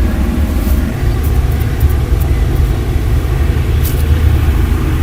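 Razor shaving chest skin close to the microphone: a loud, low rumble with a few short, scratchy strokes.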